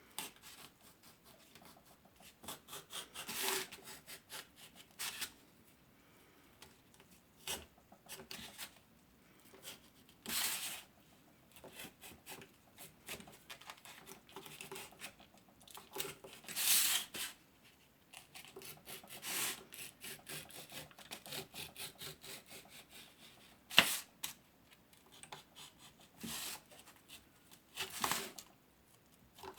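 Sharp knife cutting through a styrofoam tray: short scratchy rasping strokes in irregular bursts with pauses between, and one sharp click about two-thirds of the way through.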